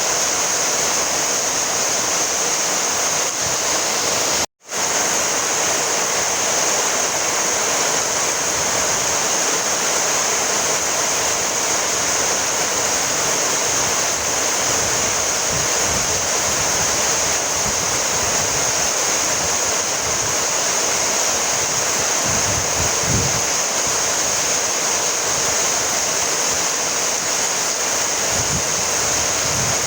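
Steady rainfall, a dense even hiss of falling rain. About four and a half seconds in the sound cuts out completely for a split second, then resumes.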